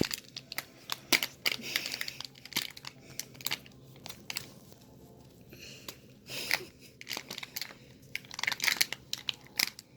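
Plastic icing bag crinkling and crackling in irregular bursts as it is squeezed hard, the stiff icing barely coming out.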